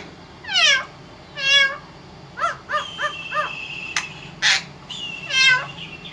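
Parrot calling: a string of squawks and short chirps, a long steady whistle a few seconds in, and a harsh screech.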